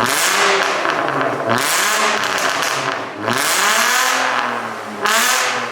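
Audi B5 A4's 2.8-litre 30-valve V6 revved through a freshly fitted straight-pipe exhaust: about four blips of the throttle, each rising and falling in pitch, the longest a little past the middle. Really loud.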